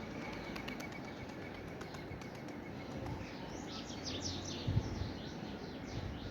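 Small birds chirping in a quick run of short, pitch-sliding notes from about three seconds in, over a steady background hiss. A fast series of faint high ticks comes before the chirps, and a couple of low thuds fall near the end.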